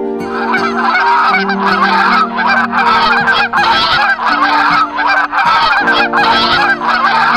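A flock of birds calling together, many overlapping calls swelling in waves about once a second, over steady low held tones.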